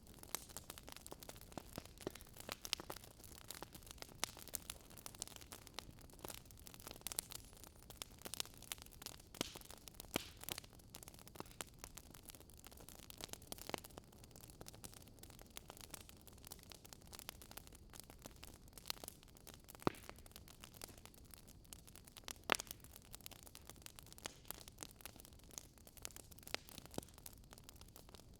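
Wood fire burning in a fireplace, crackling with irregular sharp pops over a low hiss, a couple of louder snaps about two-thirds of the way through.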